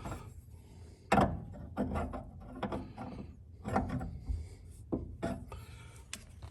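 A threaded fitting being worked into a fuel tank with a wrench, a sixteenth of a turn at a time: short rasping, creaking strokes of metal on metal, about one a second.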